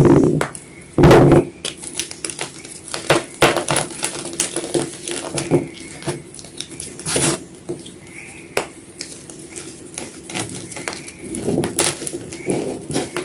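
White gym chalk (magnesium carbonate) being crunched: a dense run of irregular crisp crunches and crackles, loudest about a second in.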